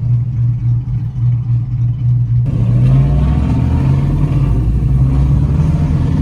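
Car engine running with a steady low drone; about two and a half seconds in the sound suddenly becomes louder and fuller, like an engine revving up.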